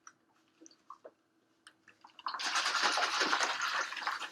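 A few faint clicks, then about two seconds in, ice cubes start rattling hard inside a cocktail shaker being shaken to chill the drink.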